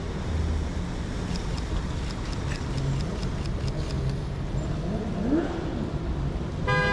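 Rainy city street traffic: a steady low rumble of cars passing on wet road under a constant hiss. A short car horn toot sounds right at the end.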